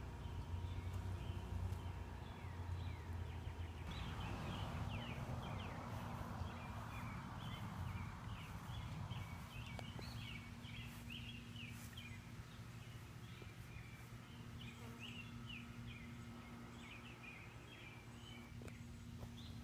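Outdoor garden ambience with birds chirping in a quick, busy run of short calls from about four seconds in. Under it are a faint steady low hum and a low rumble that eases off over the first several seconds.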